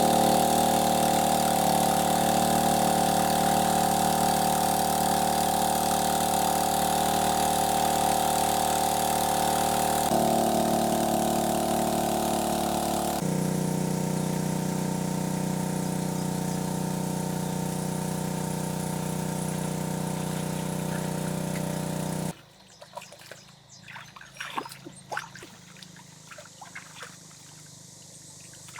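A small engine running steadily, shifting its pitch slightly twice, then cutting off abruptly about 22 seconds in. After that, only faint scattered clicks and knocks.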